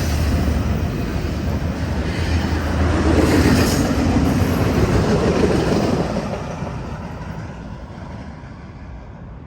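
BNSF intermodal freight train's cars rolling past on steel wheels and rails, a steady loud rumble and rush that fades away after about six seconds as the train moves off.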